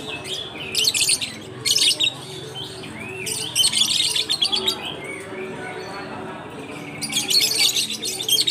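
A crowd of caged lovebirds chattering in loud bursts of shrill, rapid chirps, four bursts in all, the longest about a second long.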